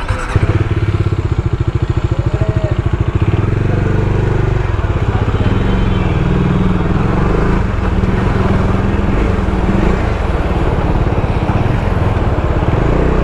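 Bajaj Dominar 250's single-cylinder engine running with a rapid, even beat for the first few seconds. About four seconds in it changes to a steadier, denser drone as the motorcycle gets under way.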